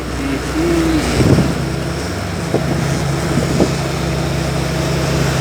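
Motorboat engine running steadily, with wind buffeting the microphone and water noise.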